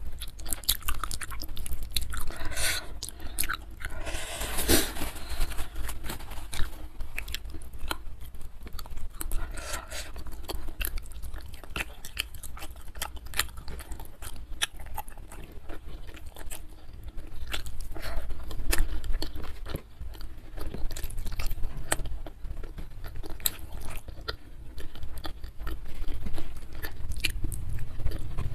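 Close-miked chewing and biting of goat trotter curry, meat and gristle pulled off the bone, with frequent small crunches and clicks. A denser stretch of biting and crunching comes a few seconds in.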